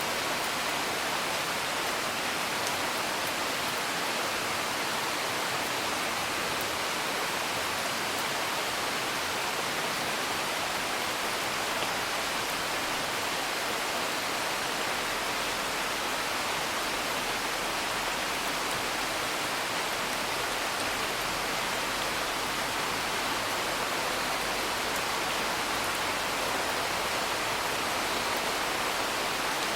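Steady, even hiss of heavy rain heard from indoors, with a few faint crackles from a wood fire.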